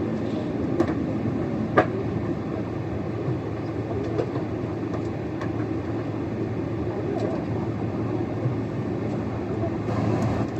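Steady airliner cabin noise: a low, even rumble of engines and airflow heard from a passenger seat, with a few short clicks, the sharpest about two seconds in.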